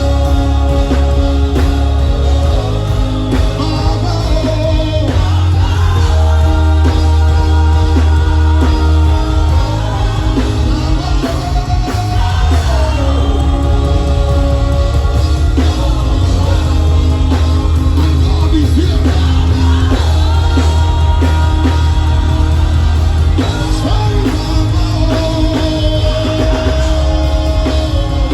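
Live gospel worship music: a singer holds long notes that glide between pitches over a band with a heavy, steady bass.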